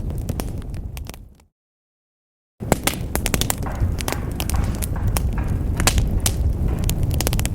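Fireplace wood fire crackling and popping with sharp snaps over a low rumble. About a second in it fades out to dead silence for about a second, then cuts back in abruptly and crackles on.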